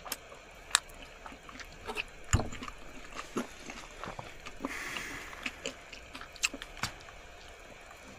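Close-miked mukbang eating sounds of raw seafood being chewed: an irregular string of sharp wet clicks and smacks, with a short hiss about five seconds in.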